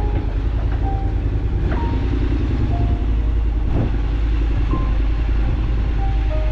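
Motorcycle riding at road speed: a steady, heavy low rumble of engine and wind.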